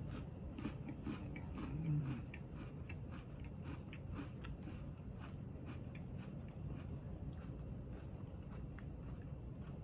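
Someone chewing a crunchy chocolate sandwich cookie, a steady run of small crisp crunches, with a brief low hum about two seconds in.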